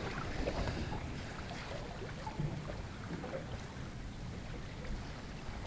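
Wind buffeting the microphone and water lapping against a small boat's hull, a steady low rumble with a few faint knocks.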